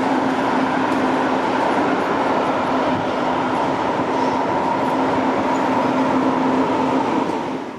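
A train passing close by, loud and steady with a droning hum over the rumble, dropping away sharply near the end.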